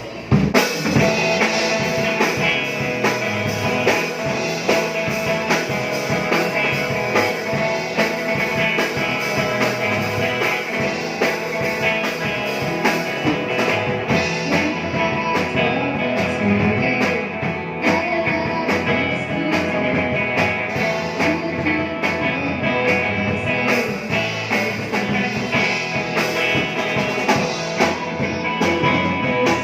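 Rock band playing live, guitar and drum kit, kicking in about half a second in.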